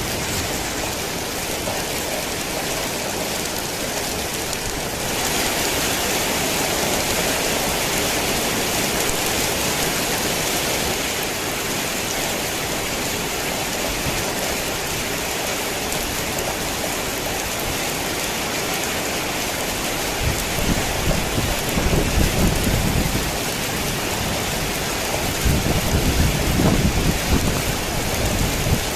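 Heavy rain falling steadily, a little heavier from about five seconds in. Two low rumbles of thunder come in near the end.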